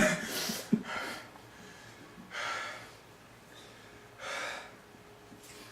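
A man breathing in sharply twice, gasping from the burn of extremely hot chili wings.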